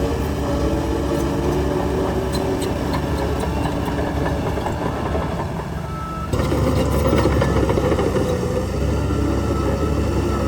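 Heavy diesel engine of earthmoving equipment running steadily, stepping up suddenly to a louder, fuller sound about six seconds in.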